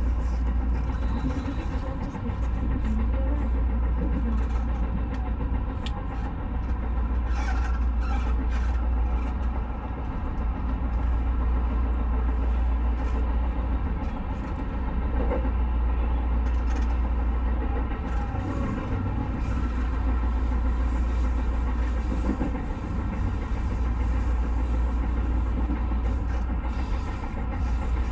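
JR West 221 series electric train running along the line, heard from inside the front car: a steady low rumble with a continuous hum over it.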